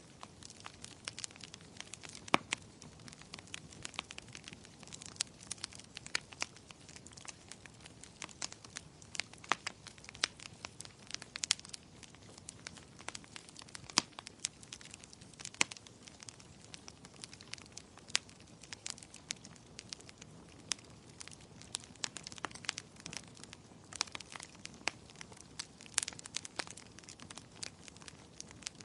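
Fireplace fire crackling: irregular sharp pops and snaps, some louder than others, over a soft steady hiss.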